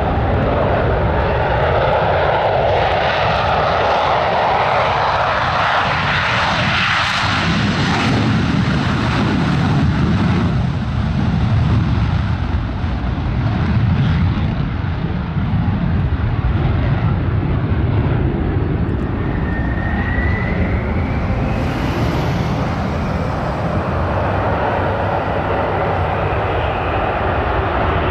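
Aircraft engines running loud and steady as planes fly past, a broad rushing sound whose tone shifts slowly as they pass. A short rising whistle comes about two-thirds of the way in.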